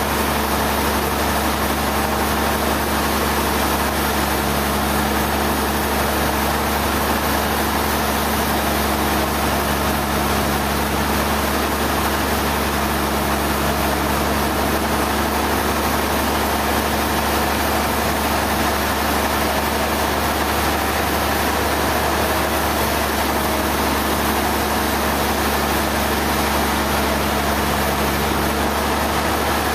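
Sawmill machinery running steadily, an engine-like drone with a constant hum and no change in pitch or loudness.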